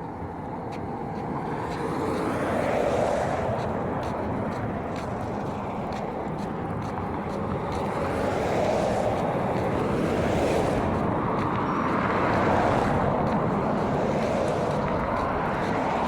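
Road traffic: vehicles passing close by one after another, each a rushing tyre-and-engine noise that swells and fades.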